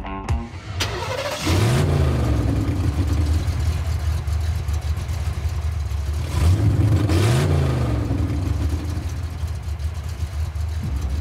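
A car engine running low, revving up and easing back twice: about two seconds in and again about six and a half seconds in.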